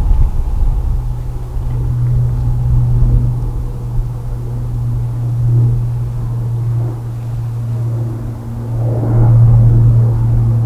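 Low, steady jet rumble of an Airbus A330-200 airliner on its landing, swelling louder near the end.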